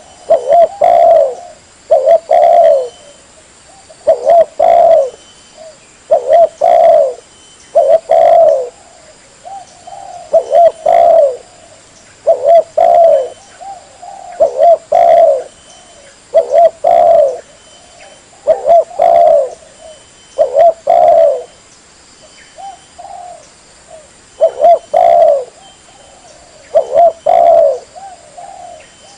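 Spotted dove (tekukur) cooing: a loud, low, multi-note coo phrase repeated about every two seconds, with a few softer coos in between, played as a hunter's lure call.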